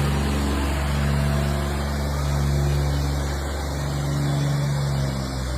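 Tractor diesel engine running hard and steadily, its low note sagging briefly about three and a half seconds in before picking up again.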